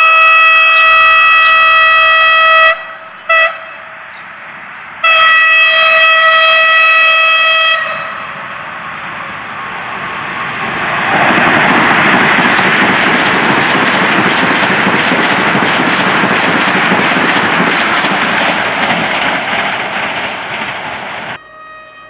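Hyundai Rotem HRCS2 electric train sounding its horn as it approaches: a long single-tone blast, a brief toot, then a second long blast. The train then passes close by at speed, a loud rush of wheels with rapid clickety-clack over the rail joints that builds up and lasts about ten seconds before cutting off near the end.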